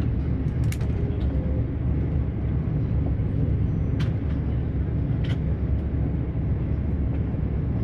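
Passenger train running at speed: a steady low rumble with three sharp clicks along the way.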